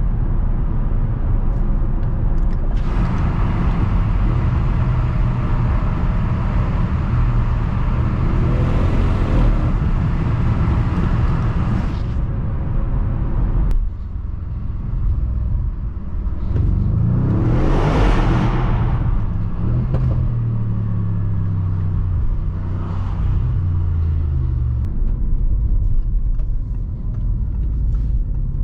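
2015 Audi RS6 Avant's twin-turbo V8 under way, a steady engine drone with road noise. Just past halfway the level drops briefly as the throttle comes off, then the engine note rises in pitch as the car accelerates again and settles back.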